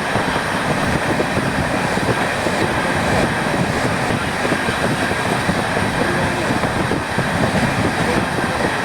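A moving train running steadily along the track: a continuous dense rumble of wheels and carriages on the rails, heard from aboard.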